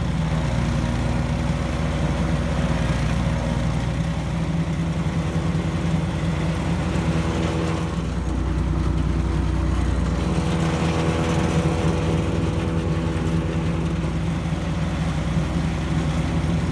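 Lumag Rambo wood chipper running steadily with its discharge chute removed, shredding grass and nettles that are being fed into it.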